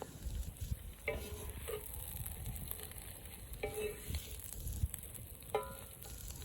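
Liver frying and sizzling in a pan over an outdoor fire. Three short squeaks come through, one about a second in, one near the middle and one near the end.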